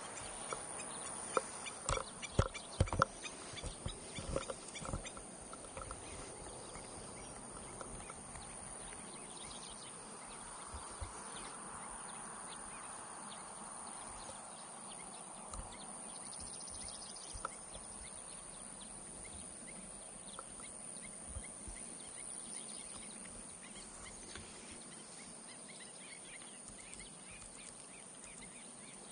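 Quiet outdoor ambience at a pond, with faint bird calls. A run of sharp knocks and clicks in the first five seconds, then a steady low background.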